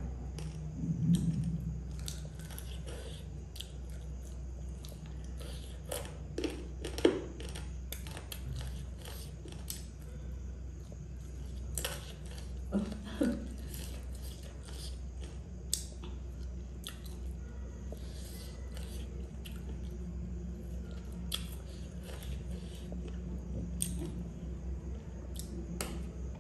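Close-up chewing and biting as a person eats chicken wings and noodles, with many short scattered mouth clicks and smacks and a few brief murmurs, over a steady low hum.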